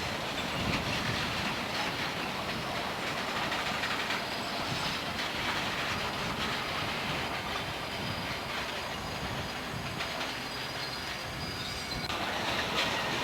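Freight train cars rolling past, wheels clicking over rail joints, with a thin high wheel squeal through most of it.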